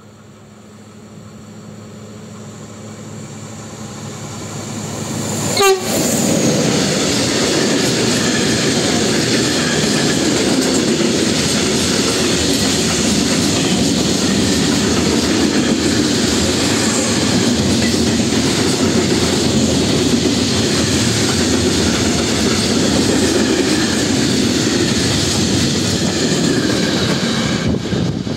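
TRAXX diesel locomotive approaching, growing louder and sounding its horn, then passing close with a sudden loud peak about six seconds in. The wagons of a long freight train follow, clattering steadily over the rails for over twenty seconds and easing off near the end as the last wagon goes by.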